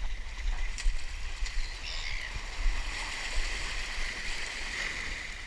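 Water rushing and sloshing, with a constant low rumble of wind on the microphone and a few faint clicks.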